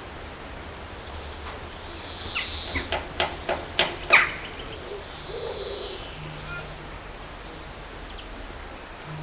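A bird calling: a quick run of about six short, sharp calls about two seconds in, the last one the loudest, over faint outdoor background.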